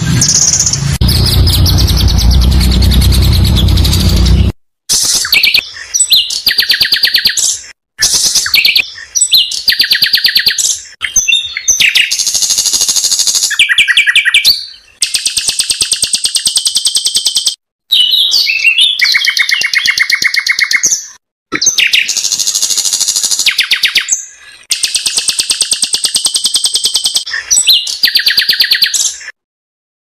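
Bird song in very fast trilled phrases of rapidly repeated notes, mostly high-pitched. The phrases are cut into bursts of one to three seconds with abrupt silent gaps between them. A low rumble sits under the first few seconds.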